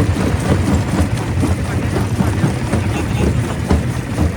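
Stone crusher running under load: a heavy, steady low drone with a constant irregular clatter of rock being broken.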